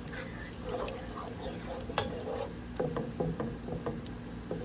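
Eating sounds: chewing with scattered mouth clicks and smacks, including a quick run of clicks about three seconds in.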